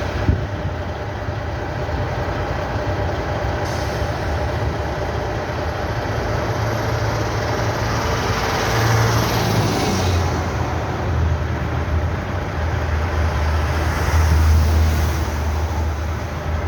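Heavy diesel truck engine running with a steady low hum under road noise. A short knock comes just after the start, and a brief swell of hiss about nine to ten seconds in.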